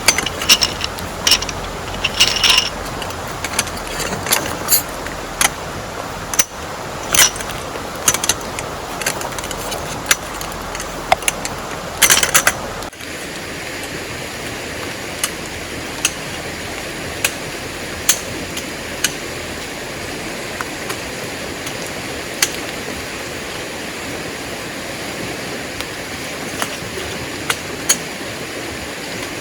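Steady rush of heavy rain and running river water, with frequent sharp ticks and taps. A little before halfway the sound changes suddenly to a smoother rush with only an occasional tick.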